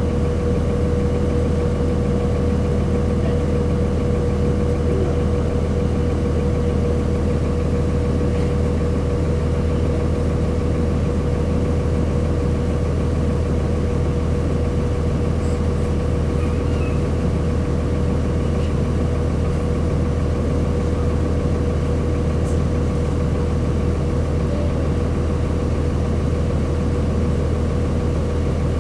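The Cummins ISC straight-six diesel of a 2002 Blue Bird CS transit bus idling steadily. It gives a low drone with a constant high whine over it, and the engine speed does not change.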